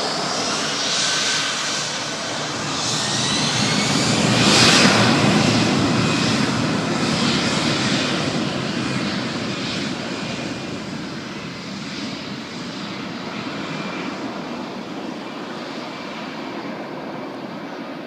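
A fixed-wing aircraft passing by with its engines running: a whining roar that swells to its loudest about five seconds in, then slowly fades away.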